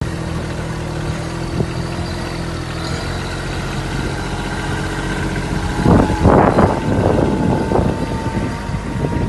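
Kubota B2741 compact tractor's diesel engine running steadily, then growing louder and rougher about six seconds in as a steady higher whine joins it.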